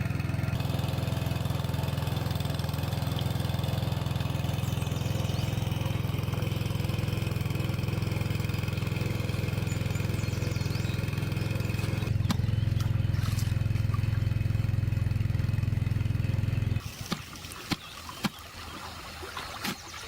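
An engine running steadily at idle, which cuts off suddenly about seventeen seconds in, leaving scattered knocks and clicks.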